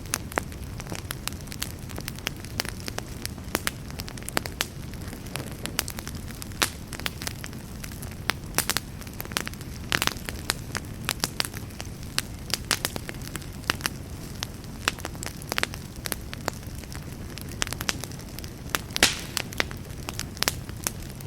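Campfire burning, wood crackling and popping at irregular intervals over a steady low rumble of flames, with a few louder pops.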